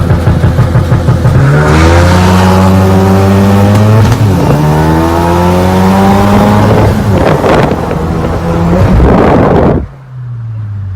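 A car engine revving hard, loud and climbing steadily in pitch, with a choppy pulsing stretch at the start and a few noisy surges. It cuts off abruptly about a second before the end.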